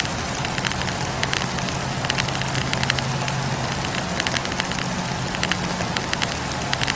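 Wood fire burning, with the logs crackling in frequent sharp, irregular pops over a steady rush of flame and a low steady hum.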